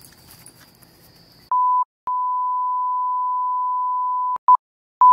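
Edited-in bleep tone, a single pure steady beep, following about a second and a half of faint background noise. It comes as a short beep, a long beep of about two seconds, then two brief blips near the end, with dead silence between the beeps.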